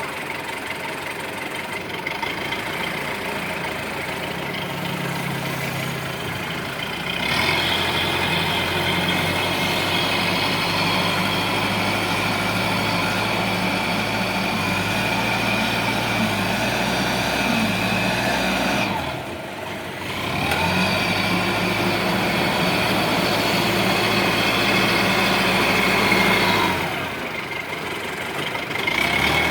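Diesel engine of a loader at work loading sand into a dump truck. It runs low for the first few seconds and revs up about seven seconds in. It dips back briefly near the middle, revs up again, and eases off near the end.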